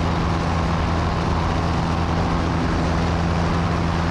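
Piper Cherokee light aircraft's piston engine and propeller droning steadily in cruise, heard from inside the cabin, with an even low hum under a rushing noise.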